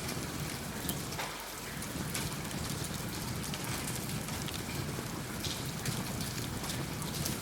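Steady rain, with occasional sharp crackles from a wood fire.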